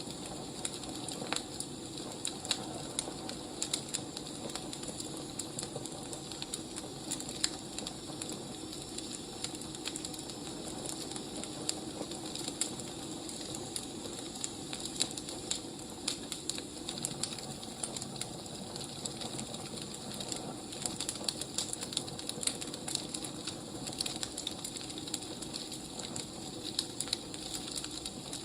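Wood fire burning with a steady hiss and frequent irregular crackles and pops.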